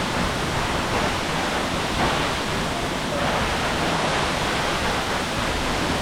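Close waterfall rushing steadily: a loud, even hiss of falling water.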